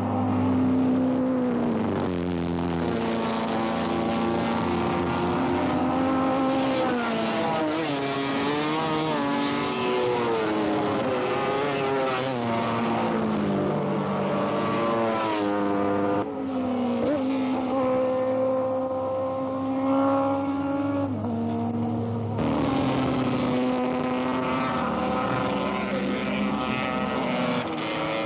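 Racing motorcycle engines running hard, several at once, their pitches rising and falling as they rev and change gear.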